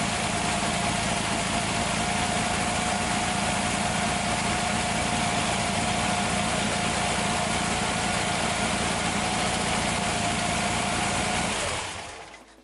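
Freshly built 1835 cc air-cooled VW flat-four in a 1966 VW Bus running steadily on its first runs, with a thin steady whine over the engine note. The carbs are on a base tune and the timing is set to 10 degrees static, not yet adjusted. The sound fades out near the end.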